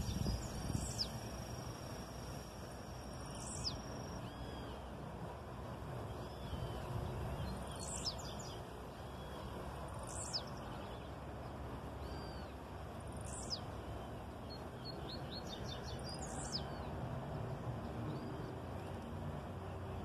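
Blue-black grassquit (tiziu) singing: a short, high note falling in pitch, repeated about every two to three seconds, with fainter chirps of other small birds over a steady low background noise.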